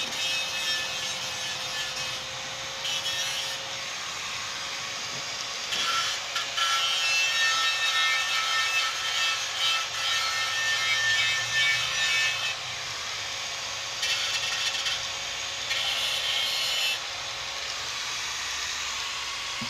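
Steady abrasive rubbing on a motorcycle fuel tank, like sanding, as the old tank is worked on for repair. It gets louder about six seconds in and again for a while near fifteen seconds.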